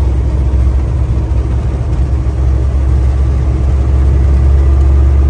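Semi truck driving at steady speed: a constant low engine and road rumble with a faint steady hum above it.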